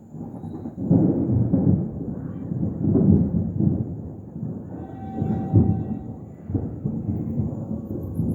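Thunder rumbling: a long rolling peal that builds up and swells several times.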